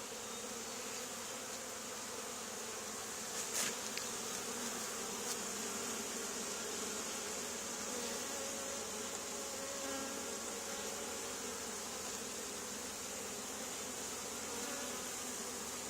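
Honey bee swarm buzzing steadily as the bees crawl into a hive box.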